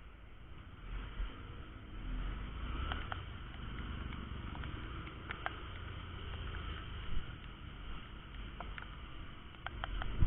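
Honda Verza 150 single-cylinder motorcycle running at low speed, a low engine rumble that swells and fades, with wind noise on the microphone and a few sharp ticks.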